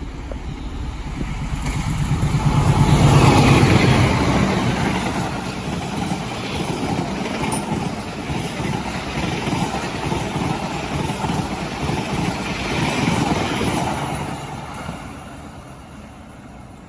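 A train passing at close range. The diesel locomotive's engine hum swells to its loudest about three seconds in, then the wheels of the following cars clatter steadily on the rails before the sound fades near the end.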